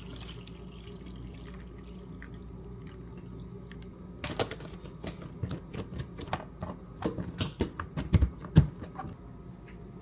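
Water trickling and dripping at a sink, then about four seconds in a quick, irregular run of knocks and clinks, like things being handled in a sink, with the loudest knock near the end.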